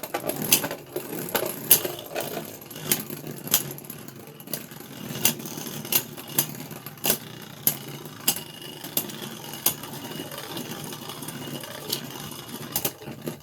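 Beyblade Burst spinning tops, one with a 3D-printed Dragoon S layer, whirring and clashing in a plastic stadium: a steady whir broken by sharp plastic clicks of collisions about once or twice a second, thinning out near the end.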